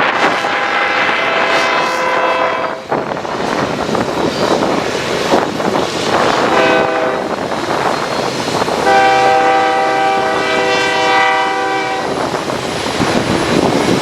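Diesel locomotive air horn sounding three blasts, long, short, long, each a chord of several steady tones, over heavy wind buffeting the microphone.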